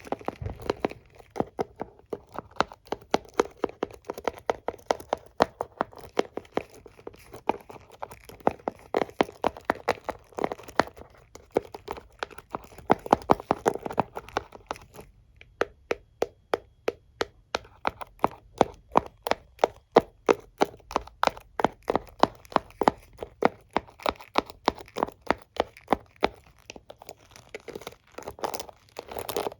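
Hairbrush and comb being tapped and flicked close up: a rapid run of crisp clicks, several a second, with a brief lull about fifteen seconds in.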